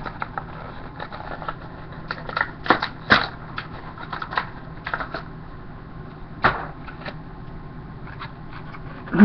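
Crackling and clicking of plastic blister packaging and card being handled as a diecast toy car is taken out of its package: irregular small clicks and crinkles, with a louder knock near the end.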